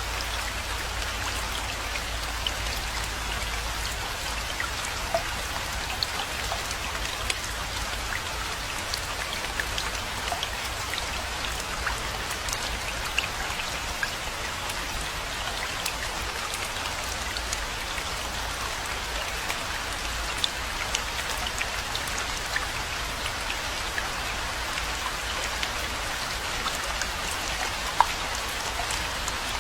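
Steady rainfall, an even hiss of rain with many distinct close drops ticking through it, and one louder drop near the end.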